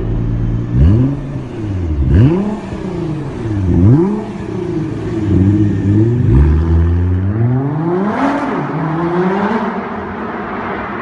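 VW Golf 7R's turbocharged 2.0-litre four-cylinder revved through a Stage 3 aftermarket exhaust: three sharp revs that rise and fall quickly, a couple of smaller blips, a settle to idle, then one longer rev near the end before it falls back to idle.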